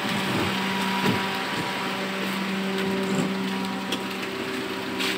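A car engine idling with a steady hum, with a few light clicks over it.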